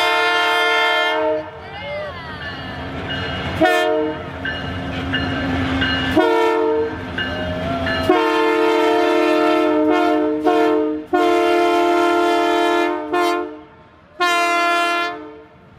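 Locomotive air horn of the arriving CP Rail Holiday Train sounding a series of blasts: several short toots and one long blast lasting several seconds, with a low rumble between the first few blasts.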